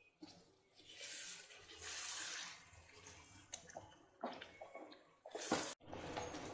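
Faint wet sloshing from a pan of chicken in thick spinach puree, in several short patches with a few soft clicks.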